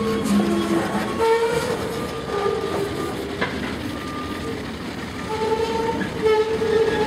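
Freight train hauled by ALCO diesel locomotives moving through a rail yard. Short squeals at shifting pitches come and go over the rumble.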